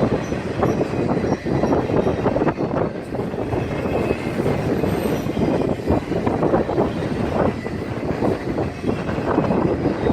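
A BNSF train's cars rolling past, a continuous loud rumble with rapid clattering of wheels over the rail joints.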